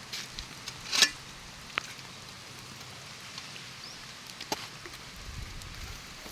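Steady hiss of rain falling, with a few sharp clicks and knocks, the loudest about a second in.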